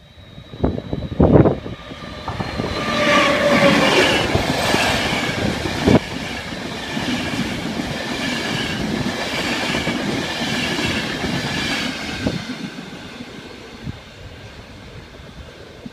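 Locomotive-hauled Intercity passenger train running through the station at speed. It builds from about two seconds in with a falling whine as the front goes by, then a steady rumble and wheel clatter from the passing coaches, with one sharp bang about six seconds in. It fades near the end as the train draws away. Wind gusts hit the microphone in the first couple of seconds.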